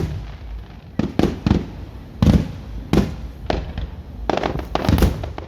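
Fireworks going off: about ten sharp bangs and pops at irregular intervals, some in quick pairs.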